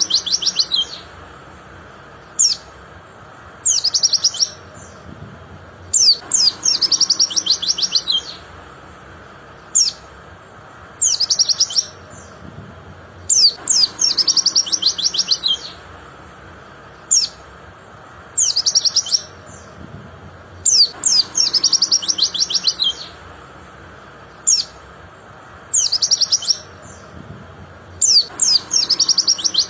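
White-eye (pleci) singing in repeated short bursts. Each phrase is a rapid run of sharp, high, falling chirps lasting a second or two, with pauses of a few seconds between phrases.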